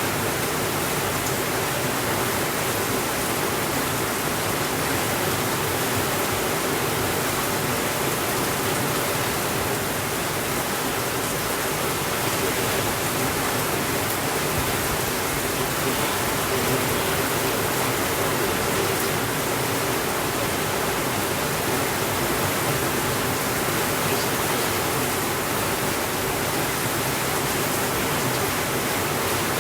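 Steady rainfall, an even hiss with no let-up or sudden changes.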